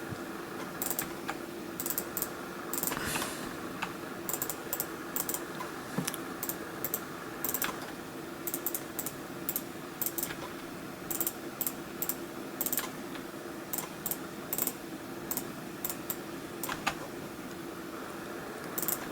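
Irregular clicking of a computer mouse and keyboard, sometimes several clicks in quick succession, over a steady low electrical hum.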